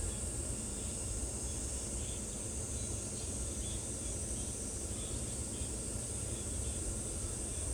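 Steady high-pitched insect drone, likely cicadas or crickets, with faint short chirps every half-second or so and a low rumble of wind or handling noise.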